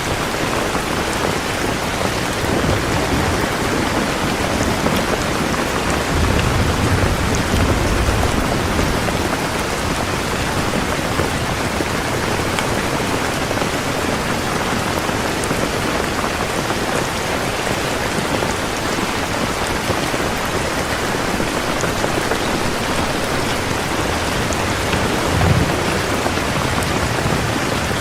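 Heavy rain falling steadily, a dense even hiss of drops, with low rumbles of thunder swelling about six seconds in and again near the end.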